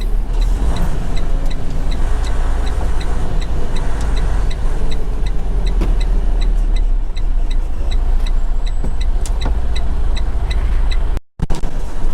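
Semi truck's diesel engine running with a steady low rumble, heard from inside the cab, with a short regular tick about three times a second over it. The sound cuts out for an instant near the end.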